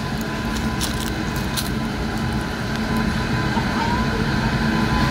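Electric locomotive hauling an express train as it approaches: a steady low hum from the locomotive and its wheels on the rails, slowly growing louder, with a few sharp clicks in the first two seconds.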